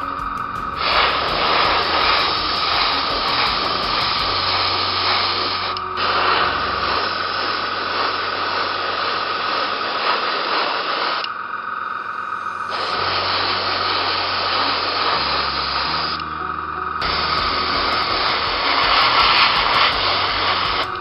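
Aerosol spray can hissing in four long bursts of several seconds each, laying on a clear gloss coat, with steady background music underneath.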